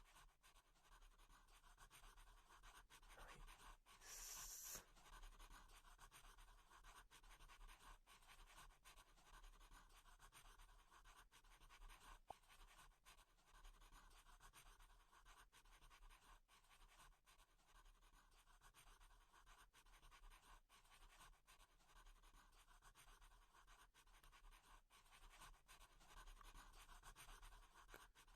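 Near silence with faint scratching and light ticking throughout.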